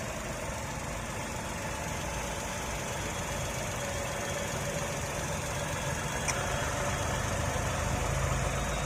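Pre-2023 Tata Punch's 1.2-litre three-cylinder petrol engine idling steadily, heard close up in the open engine bay.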